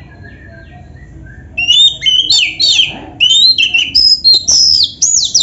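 Oriental magpie-robin (kacer) singing: a few faint chirps, then from about a second and a half in a loud run of quick whistled notes, many sliding down in pitch.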